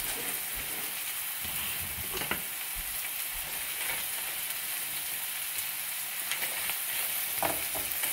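Cooked shrimp and chopped vegetables sizzling steadily in a large wok-style pan on a gas stove, with a few scrapes as a wooden spoon stirs them. The shrimp are giving off water into the pan.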